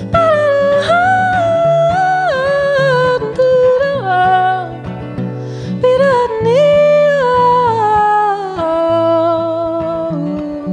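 A woman's voice singing a wordless melody, holding notes and sliding between them, over steady low accompaniment.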